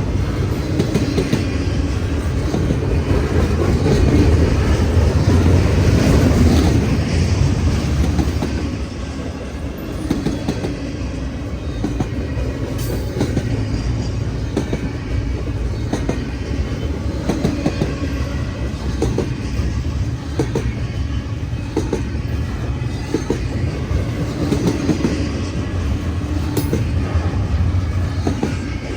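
Freight train rolling past: a steady rumble with the clickety-clack of wheels over rail joints, loudest about five seconds in.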